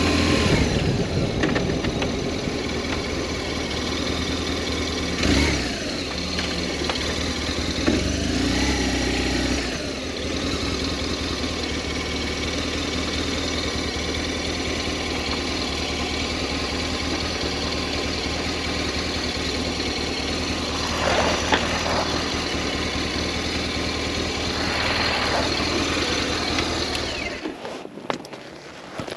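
BMW R1200S motorcycle's boxer-twin engine running, with a few brief changes in revs in the first ten seconds, then steady. It is switched off shortly before the end.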